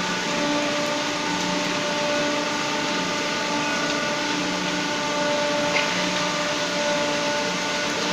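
Tupesa industrial washing machines running: a steady motor whir and hiss with several constant hum tones, the lowest of them pulsing slowly every second or two.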